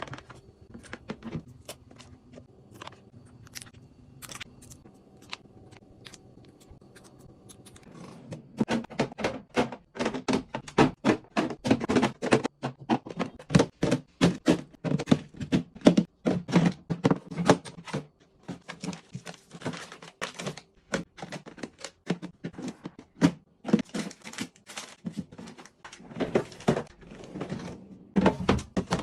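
Close-up clicks, taps and knocks of plastic storage boxes, lids and food packaging being handled and set down in a fridge. They come sparse and soft for the first eight seconds or so, then busy and louder.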